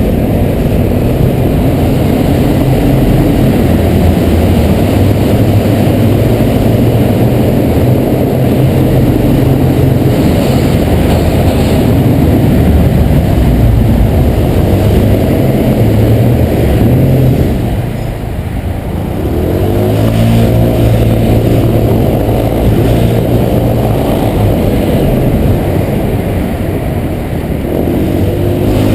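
Honda PCX 125 scooter's single-cylinder four-stroke engine under way, with heavy wind rumble on the microphone. It eases off about two-thirds of the way through, then picks up speed again with a rising engine note.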